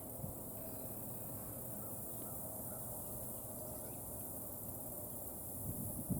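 Outdoor ambience with a steady high insect drone and a brief distant bird call about half a second in. A single faint tap near the start, from the red-bellied woodpecker at its pecan. Wind buffets the microphone near the end.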